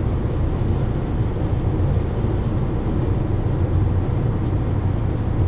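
Steady road and engine noise of a car driving at highway speed, an even low rumble.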